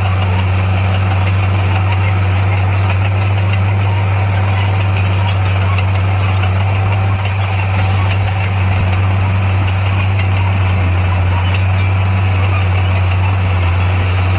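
Heavy diesel engine of earthmoving machinery running steadily at constant speed, a deep even drone.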